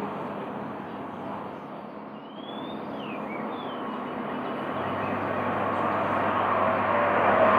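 Three or four short falling bird chirps come about two to three seconds in. Under them runs a steady noise of a motor vehicle that grows louder toward the end, with a low engine hum coming in about halfway through.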